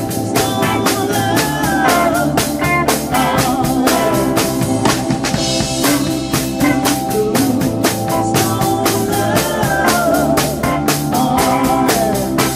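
Live band music: a drum kit keeping a steady beat with bass and a wavering lead line over it.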